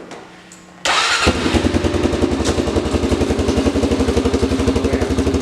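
Small off-road vehicle engine starting about a second in, then idling steadily with a rapid even pulse.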